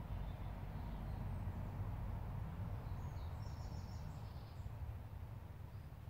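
A bird chirps faintly, a short run of quick high notes about halfway through, over a steady low rumble of outdoor background noise.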